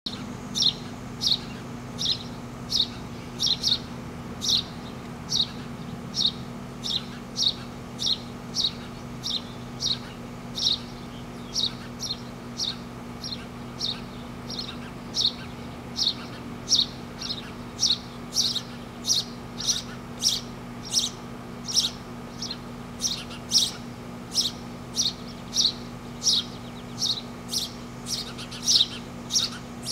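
Baby birds begging for food, giving short, sharp, high-pitched calls repeated about twice a second, over a faint low steady hum.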